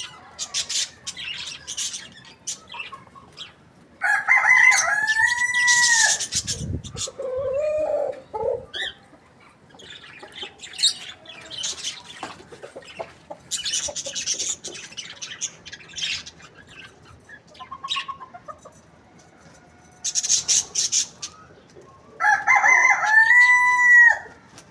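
A rooster crowing twice, each crow a long call about two seconds that rises, holds and drops off, the second near the end. Between them come some lower, shorter calls and several short bursts of hiss.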